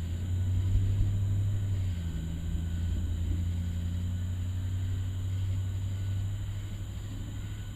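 A low, steady rumble that swells about a second in and holds.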